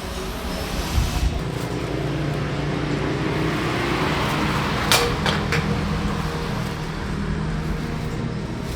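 Steady engine hum with road noise, with a couple of sharp clicks about five seconds in.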